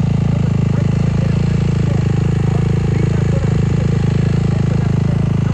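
Dirt bike engine idling steadily, with no revving.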